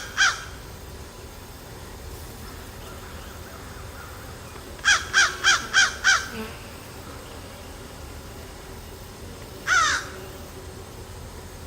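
A crow cawing: a quick run of about six harsh caws about five seconds in, and a single caw near the end.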